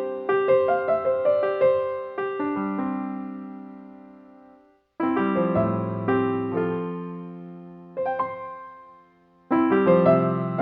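Background piano music: phrases of struck notes and chords that ring and fade away, broken twice by short silences.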